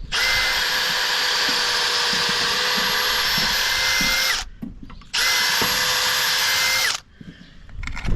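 Electric drill boring a hole through a wooden gate, running steadily for about four seconds, stopping briefly, then running again for about two seconds before cutting off.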